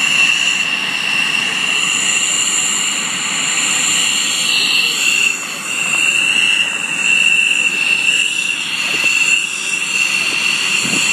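F-16 fighter jet engine running loud and steady: a high-pitched whine over a wide rushing noise, dipping briefly about halfway through.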